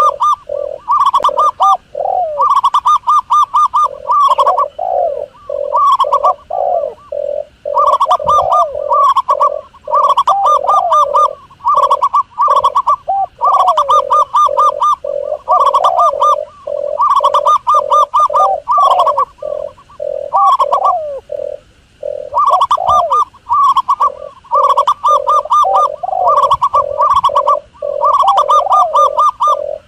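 Doves cooing: fast runs of short repeated notes, each run lasting one to two seconds, over lower coos that bend in pitch, continuing throughout.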